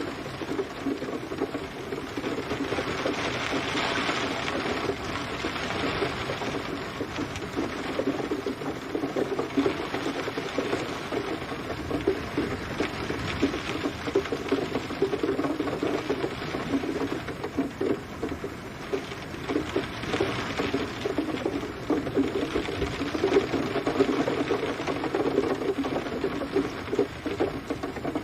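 Steady rain pattering on a surface: a dense, irregular crackle of drops that swells and eases a little every few seconds.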